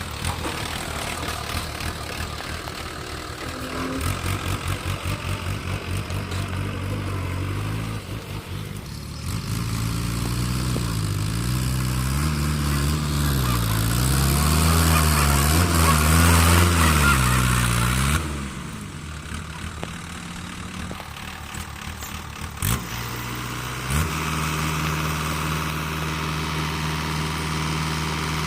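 Heavy diesel engine running and revving up and down repeatedly, loudest in the middle stretch, then settling back to steady running; a single sharp knock comes a few seconds before the end.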